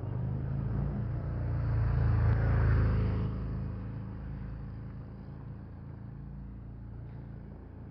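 A car passing by, its noise swelling to a peak about two and a half seconds in and then fading away.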